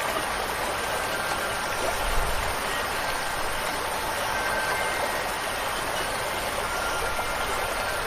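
Steady hiss of rain and running water. Faint wind chime tones ring near the start and again near the end.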